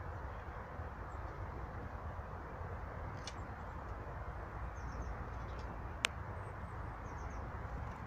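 Faint, high calls of small birds, a few short groups of quick notes, over a steady outdoor background hiss. One sharp click sounds about six seconds in.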